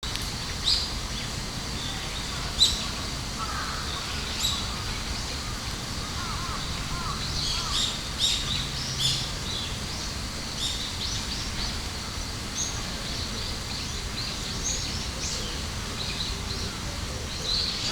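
Outdoor ambience with birds chirping repeatedly in short high calls over a steady background noise.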